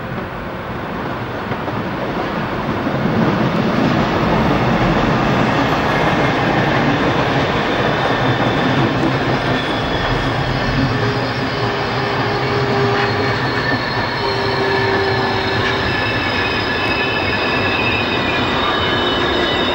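A train running along the rails, getting louder over the first few seconds and then holding as a steady rumble of wheels on track, with high-pitched wheel squeal coming in about halfway through.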